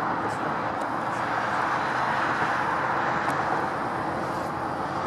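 Steady hiss of distant road traffic, with a few faint high chirps.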